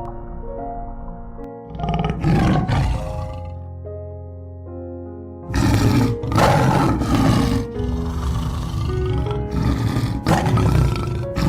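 A large animal gives several loud, rough roars over soft piano background music.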